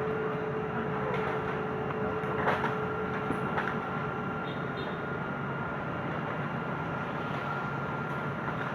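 Doosan Daewoo 180WV wheeled excavator's diesel engine running steadily with a steady whine, with a couple of sharp knocks about two and a half seconds in and another about a second later.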